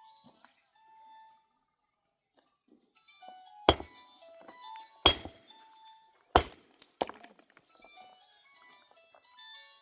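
Three heavy thunks about a second and a half apart, then a lighter fourth one, with faint bird chirps around them.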